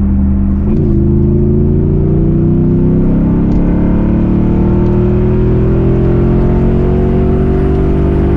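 Jeep SRT8's V8 at full throttle through a Borla exhaust with the mid muffler deleted. Its pitch dips briefly about a second in, then climbs steadily, with no raspiness.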